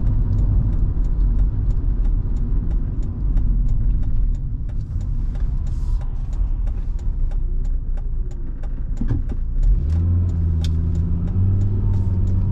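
Volvo V70 2.5T's turbocharged five-cylinder engine and tyre rumble heard from inside the cabin, with light ticking throughout. About ten seconds in, the engine note becomes clear and strong as the car pulls away.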